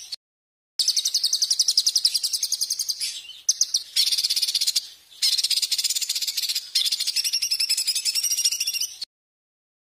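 A songbird's rapid, harsh pulsed trill, well over ten notes a second, high-pitched, repeated in phrases of one to two seconds with short breaks, used as masteran training song for cage birds. It cuts off abruptly about nine seconds in.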